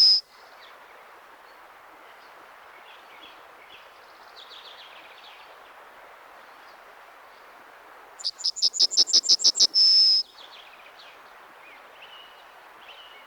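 Yellowhammer singing: about eight seconds in, one full song phrase, a quick run of about a dozen short repeated notes ending in a long drawn-out note, with the held end note of a previous phrase at the very start. Fainter calls from other birds sound in between over a steady background hiss.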